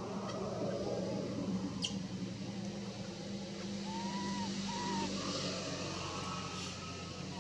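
A motor vehicle's engine running steadily, with a low hum that swells over the first seconds. About four seconds in come two short, high arched calls.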